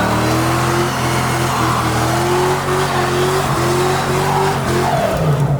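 A car engine running hard at high revs, its pitch slowly climbing over several seconds, with tyres squealing.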